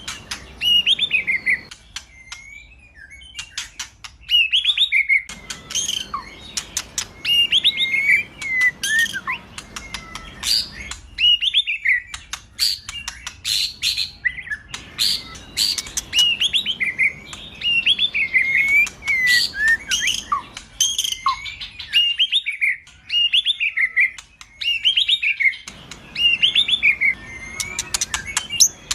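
White-rumped shama (murai batu) singing: repeated whistled phrases that slur up and down, mixed with sharp clicking, rattling notes. A new phrase comes every couple of seconds.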